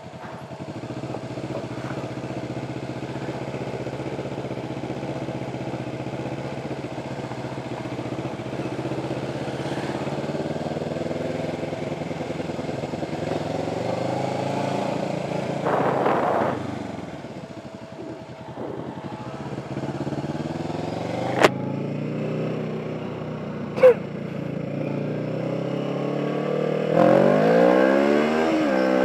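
Kawasaki Ninja motorcycle engine running at low road speed. Its pitch rises with the throttle about halfway through, eases off, then rises again near the end. Two sharp clicks come a couple of seconds apart in the second half.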